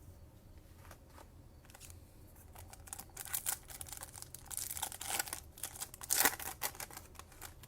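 Trading-card pack wrapper being torn open and crinkled in the hands: a run of irregular crackling rustles that starts a couple of seconds in and is loudest about six seconds in.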